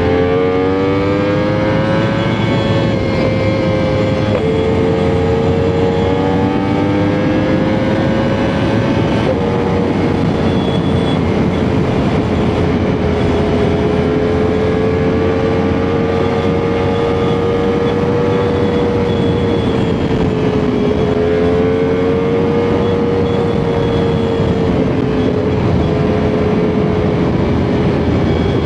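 Sport motorcycle engine held at a steady cruising speed, its pitch drifting slowly up and down with small throttle changes, over a dense rush of wind and road noise.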